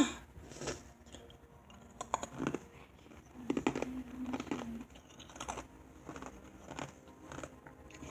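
Ice cubes being crunched between teeth: a scattered run of short, sharp cracks and clicks.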